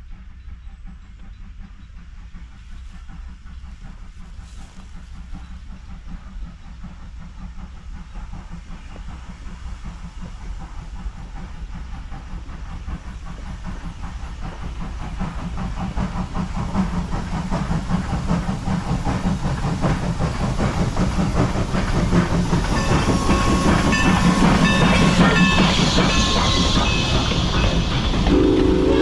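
Former Norfolk and Western 475, a 4-8-0 steam locomotive, running with a steady hiss of steam and growing steadily louder as it approaches. Its whistle begins to sound at the very end.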